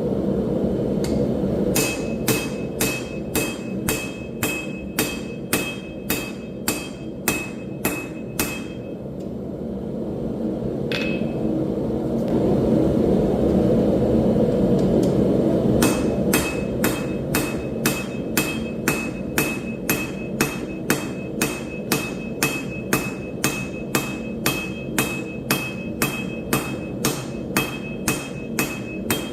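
Hand hammer striking hot steel on an anvil at a steady pace of about two blows a second, each blow leaving a short bright ring. There are two runs of blows with a pause of several seconds between them, over a steady low rushing noise that grows louder during the pause.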